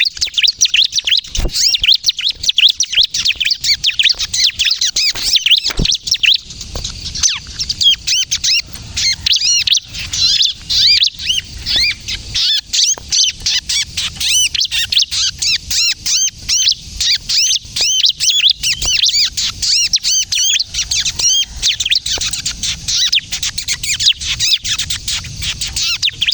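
Ciblek kristal (bar-winged prinia) singing in full, nonstop voice: a rapid, unbroken stream of high, thin chirps and short rising and falling notes, the insistent 'kejepit' style of song used as a lure call for other ciblek.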